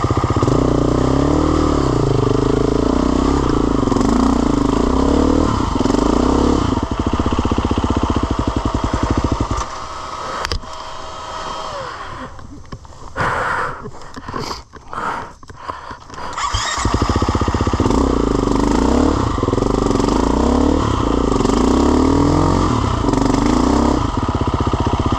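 Off-road motorcycle engine running and revving up and down under load. It drops away for several seconds about halfway through, then comes back strong.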